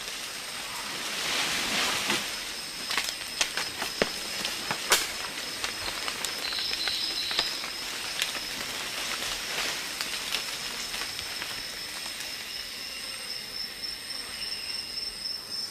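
Tropical rainforest ambience: insects droning steadily at a high pitch over a hiss, with scattered sharp clicks and cracks. A brief higher chirp comes about seven seconds in.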